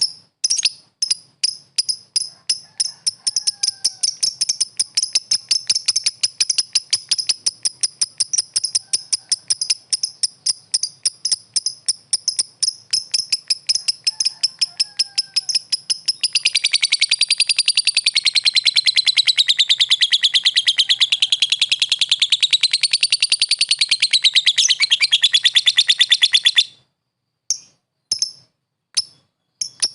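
Lovebird calling in a quick run of high repeated chirps that speeds up into a long, continuous chattering trill, its pitch swinging up and down: the prolonged 'ngekek' call prized by lovebird keepers. The trill cuts off near the end, followed by a few separate chirps.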